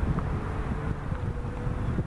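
Wind buffeting the microphone over the low rumble of an approaching CSX freight train led by GE ES44AH and ES40DC diesel locomotives.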